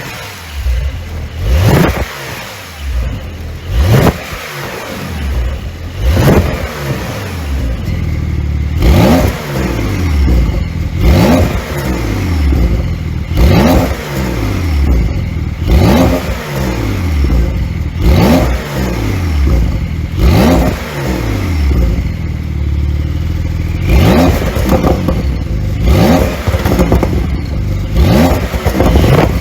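Porsche 911 992 Carrera S 3.0-litre twin-turbo flat-six exhaust, revved in short blips about every two seconds, about a dozen times. Each rev climbs sharply and falls back to idle.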